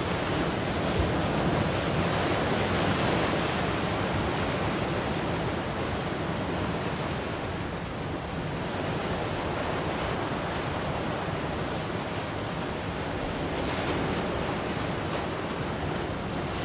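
Ocean surf: a continuous wash of breaking waves, swelling louder early on and again near the end.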